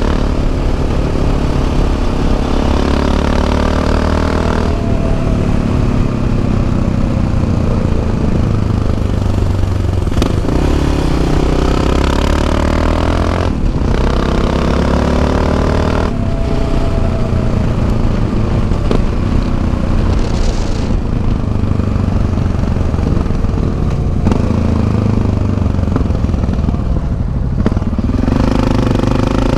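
Yamaha XT 660 Z Ténéré's single-cylinder engine under way, heard from the rider's seat: the engine pitch climbs and drops with throttle and gear changes, with a brief break in the sound about halfway through.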